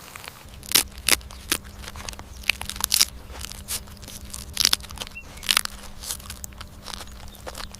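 Rabbit eating cabbage: irregular sharp crunches of cabbage leaves being bitten and chewed, over a faint steady low hum.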